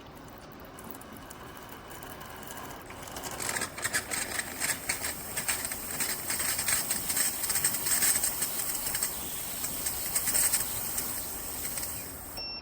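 Café Affetto espresso machine's steam wand purging itself before frothing: a steady hiss that swells about three and a half seconds in into a loud, sputtering spray of steam and water, then cuts off suddenly near the end.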